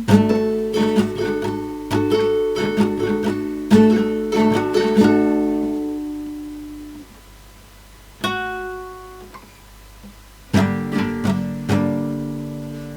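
Acoustic guitar playing the closing bars of a song: a run of plucked notes and strummed chords that fades out, a single note about eight seconds in, then a last chord about ten and a half seconds in, left to ring.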